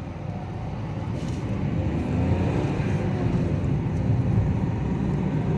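Diesel Hyundai Accent's engine and road noise heard from inside the cabin, growing steadily louder as the car gets moving again after a stop.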